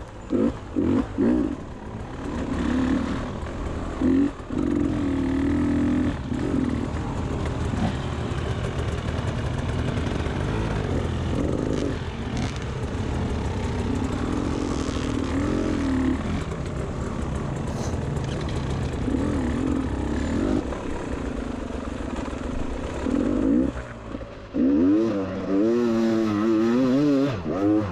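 Beta 300 RR two-stroke enduro bike engine revving up and down while being ridden, its pitch rising and falling over and over, with a run of quick, sharp revs near the end.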